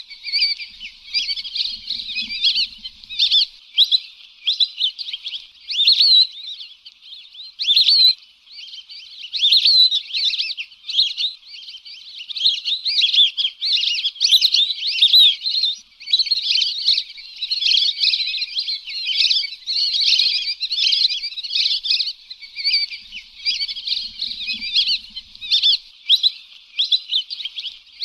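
Lesser whistling ducks calling: a flock's dense, unbroken stream of high, overlapping whistles and chattering notes.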